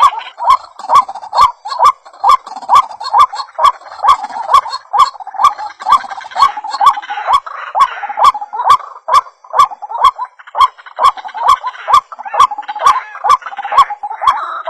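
White-breasted waterhen (ruak-ruak) calls played as a bird-trapping lure: a quick, even run of short calls at about three a second, each with a sharp click.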